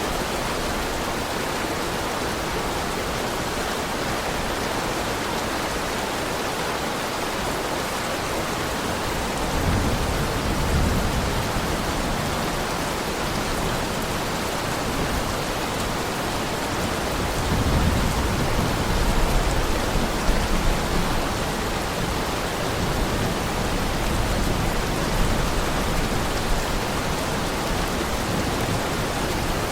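Heavy rain falling steadily, with low rumbles of distant thunder about ten seconds in and again from about eighteen to twenty-one seconds.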